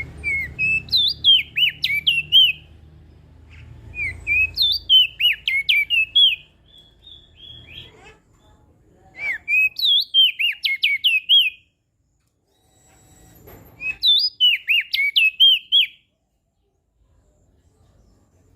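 Crested white-eye (opior jambul) singing: four quick warbling phrases of rapid rising and falling notes, each about two seconds long, with a few seconds of quiet between them.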